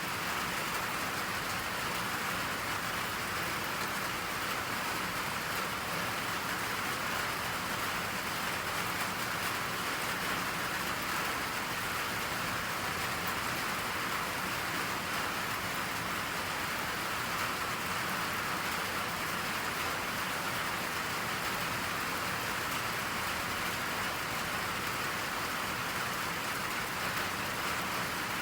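Steady rain falling, an even hiss of rain without change or pause.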